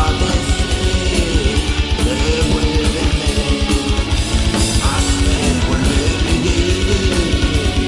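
Heavy metal band playing an instrumental passage: electric guitars over a rapid, driving kick drum.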